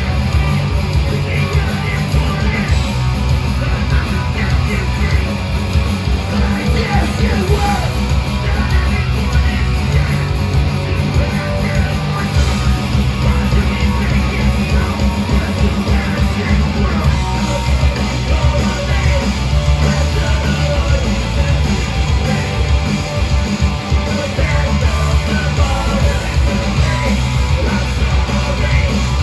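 Live punk rock band playing loud, with distorted guitars, bass and drums and shouted vocals, picked up as a crowded, bass-heavy live mix.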